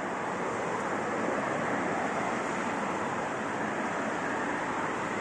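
South Western Railway passenger train rolling into the station. Its wheels on the rails make a steady rushing noise with no distinct tones.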